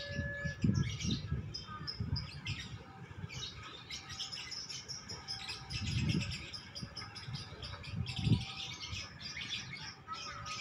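Small birds chirping in quick, overlapping calls, over low swells of motorcycle traffic rumbling past. A steady electronic level-crossing warning tone cuts off just after the start.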